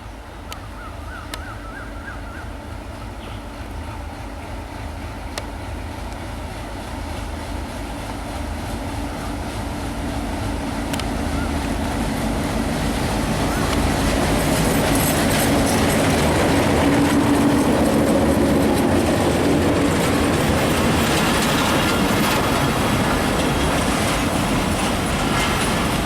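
Bangladesh Railway train approaching, growing steadily louder over roughly the first fifteen seconds, then running past close by with a heavy rumble and a dense rattle of wheels and carriages.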